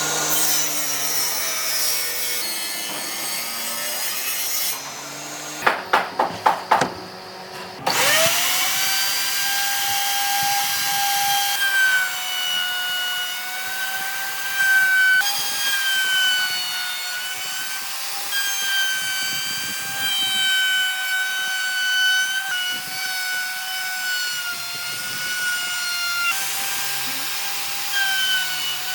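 Electric power tool working wood, its motor giving a steady whine that dips slightly in pitch as it bites. About six seconds in, five quick sharp knocks come in a row, after which the tool runs on.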